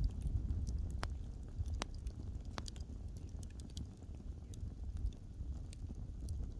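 Wood fire crackling: scattered sharp pops and snaps of burning wood over a low, steady rumble of the flames, with a few louder pops in the first three seconds.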